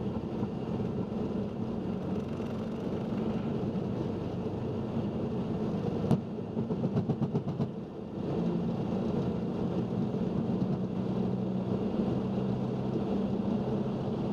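Boeing 737-800 heard from the cockpit during the takeoff roll: its CFM56 engines at takeoff thrust give a steady hum and rumble. About six seconds in there is a sharp click followed by a run of quick knocks, typical of the nose wheel running over runway joints or lights, and the sound dips briefly near eight seconds before the steady hum returns.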